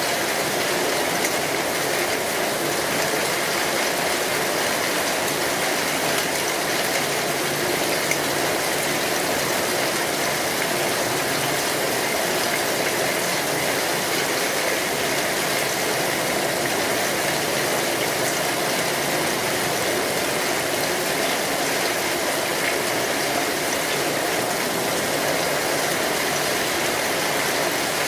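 Steady rain falling on an umbrella: a dense, even hiss of drops that holds level and never breaks.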